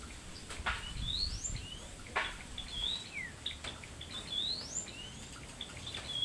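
Small songbirds, a blackthroat and a glatik belong, singing: short chirps and quick whistled notes that sweep upward, mixed with a few sharp snaps. A similar rising phrase comes twice.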